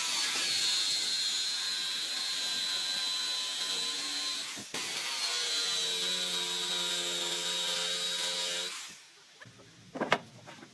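An electric power tool running with a high whine in two runs, briefly interrupted a little before halfway, then switched off; a single knock near the end.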